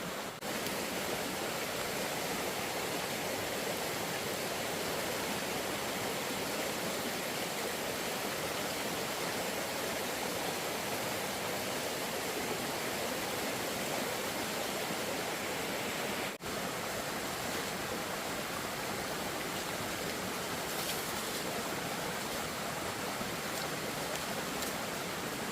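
Steady rushing noise of flowing water, even and unbroken, briefly interrupted about sixteen seconds in.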